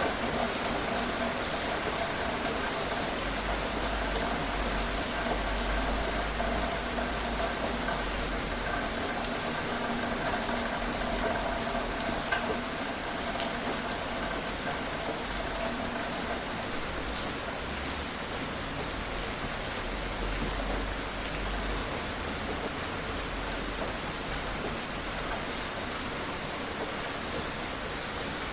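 Steady gentle rain: an even hiss of rain falling on surfaces, with scattered individual drops ticking through it.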